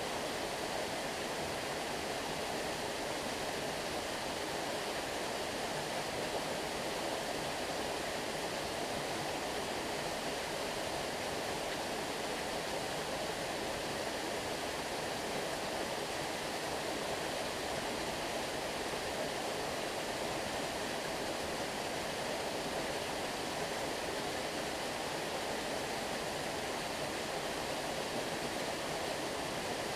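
Stream water flowing steadily, an even rushing with no breaks or changes.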